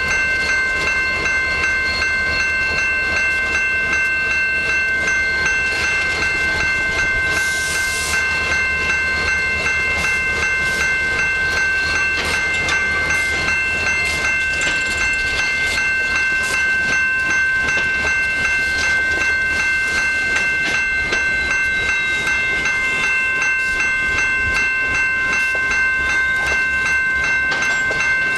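A train rolling past: wheels clicking steadily over the rail joints over a low rumble, with a steady high-pitched whine of several notes held throughout.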